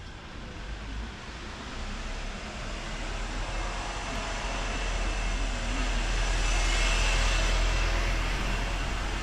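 A vehicle passing by, its noise swelling slowly to a peak about seven seconds in and then easing off, over a steady low rumble.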